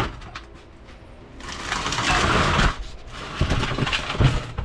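Metal transfer-case parts and tools being handled on a workbench: a rushing scrape lasting about a second, then a few light knocks.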